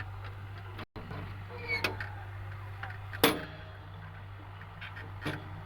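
Swaraj tractor's diesel engine running at a steady low idle, with a few sharp clicks over it, the loudest about three seconds in.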